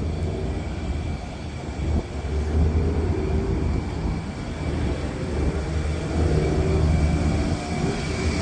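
Large commercial rooftop air-conditioning units running: a steady low mechanical drone with a deep hum.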